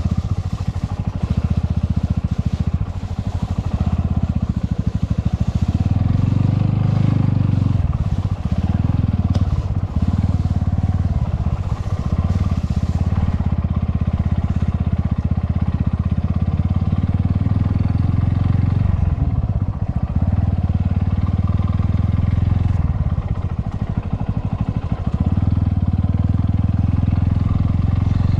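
Motorcycle engine running under way, its low note easing off and picking up again several times as the throttle is closed and reopened.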